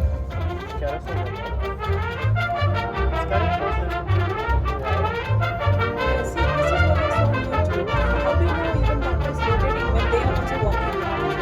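High school marching band playing: brass carries the melody over pulsing low brass, with short percussion hits throughout.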